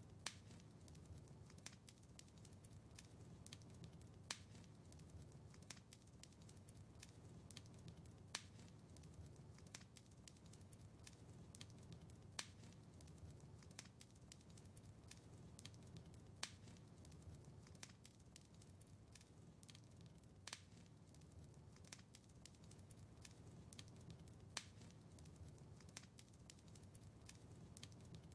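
Quiet wood fire crackling in a fireplace: a steady run of small crackles, with a sharper pop about every four seconds.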